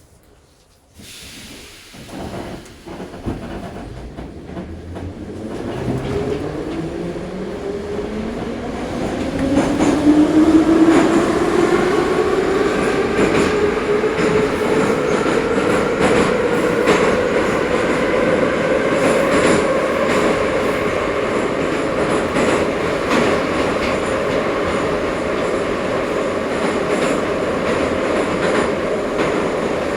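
Ezh3 metro train pulling away from the station: a whine that rises in pitch as the train accelerates over roughly the first ten seconds, then levels off into a steady running hum with wheel and rail noise.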